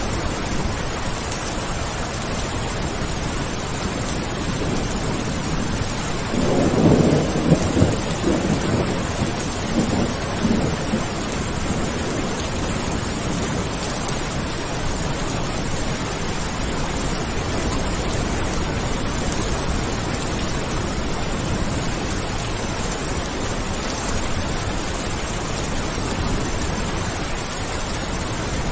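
Steady heavy rain with a roll of thunder about seven seconds in, rumbling for several seconds before fading back under the rain.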